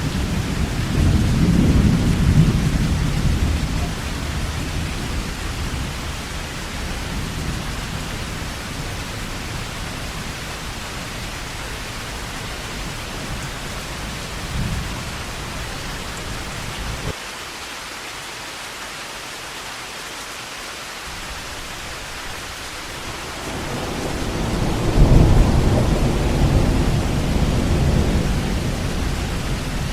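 Heavy rain falling steadily with rolling thunder: one deep rumble fading in the first few seconds, and another swelling about two-thirds of the way through, peaking, then slowly easing.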